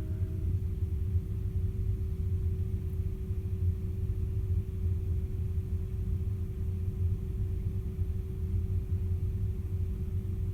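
Caledonian Sleeper train's steady low rumble, with a single steady hum running above it.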